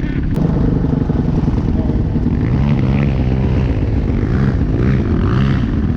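Dirt bike engine running under riding load, its pitch rising and falling repeatedly as the throttle is opened and closed.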